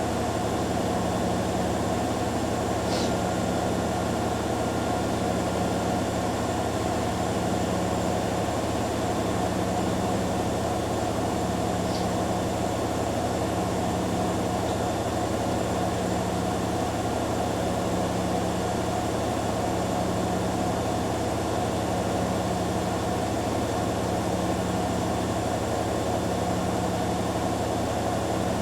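Hoover Dynamic Next DXA610IW3 and Beko Pro AquaTech WX94044EO washing machines running their spin cycles together: a steady motor and drum hum with a lower tone that swells and fades every few seconds. Two faint ticks are heard along the way.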